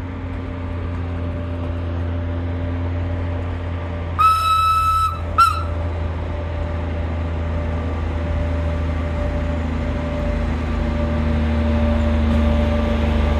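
Pikes Peak Cog Railway train moving past with a steady low engine hum, sounding its horn about four seconds in: one blast of about a second, then a short toot.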